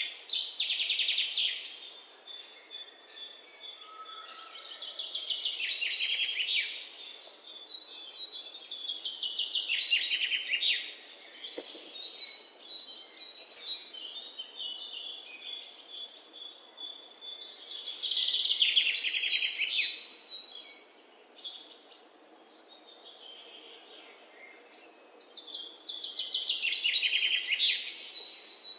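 Rainforest birdsong: a bird repeats a fast run of notes that drops in pitch, each phrase about two seconds long, five times with pauses between. A thin, steady high tone runs underneath through the first half.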